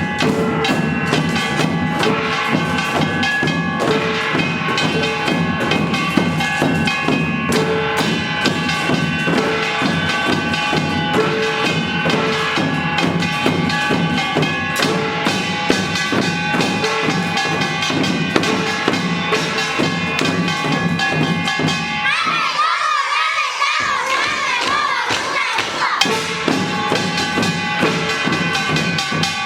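Children's samulnori ensemble, Korean traditional percussion of drums and small gongs, playing a dense, steady rhythm with ringing metallic tones. About three-quarters of the way through the drumming stops and a crowd of voices with wavering pitch takes over.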